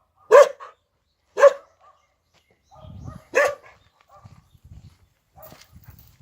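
Jindo dog barking three times, single sharp barks spaced about a second or two apart, with faint low scuffing noises between them.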